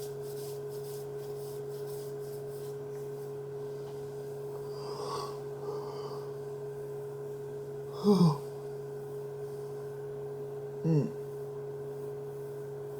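Steady background hum with a constant higher tone, broken by a few brief vocal sounds about 5, 8 and 11 seconds in.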